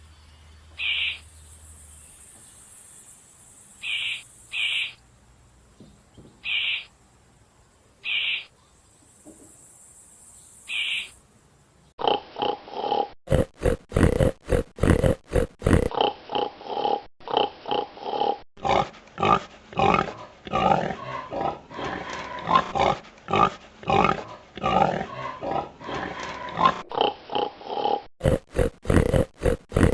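Animal calls: a series of short, high-pitched calls a second or two apart, then, about twelve seconds in, a loud run of rapid repeated grunts.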